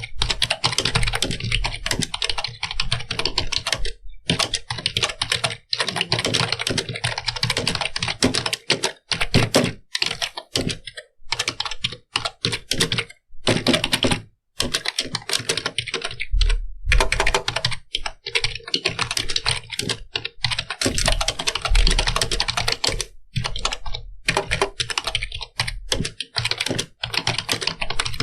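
Computer keyboard being typed on in fast, continuous runs of key clicks, broken by short pauses every few seconds.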